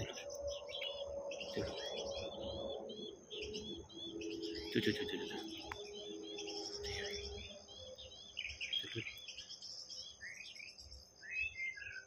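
Several wild birds chirping and singing, many short notes overlapping, over a steady thin high tone.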